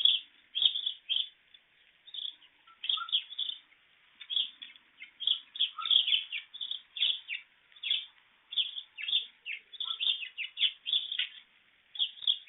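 Small birds chirping: many short, high, falling chirps, several a second, with only brief pauses.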